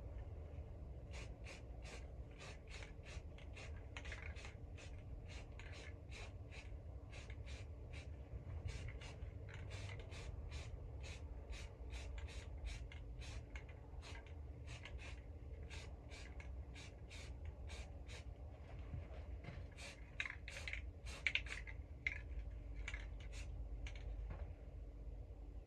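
Quick, even scratchy strokes, about two a second, over a steady low hum.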